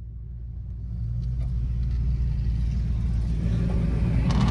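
Motor vehicle's engine rumble, growing steadily louder, with a rushing hiss building up near the end.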